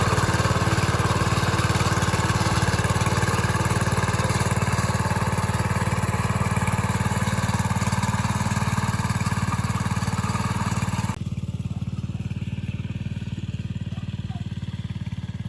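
An engine running steadily with a fast, even low pulse. About eleven seconds in, the higher-pitched noise cuts off suddenly and the engine carries on a little quieter.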